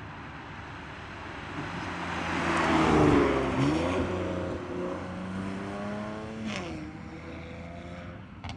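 BMW S58 twin-turbo straight-six exhaust note through a titanium equal-length X-pipe catback and catless downpipes as the car accelerates. It swells to its loudest about three seconds in, where the pitch bends, then settles to a steadier, quieter note with a brief dip and recovery in pitch about six and a half seconds in.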